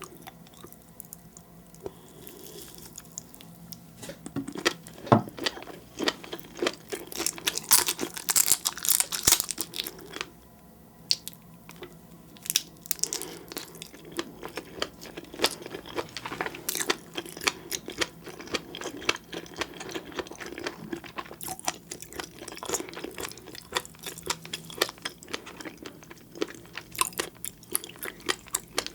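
Close-miked chewing of seafood (red shrimp and flying fish roe): a dense run of crunches, crackles and little pops, with a brief lull about ten seconds in.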